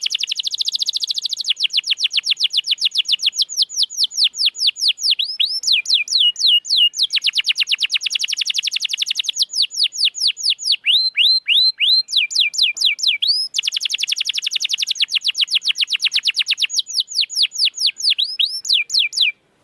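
Domestic canary singing long rapid trills of repeated downward-sweeping notes, switching to a new phrase every two to four seconds and stopping suddenly near the end.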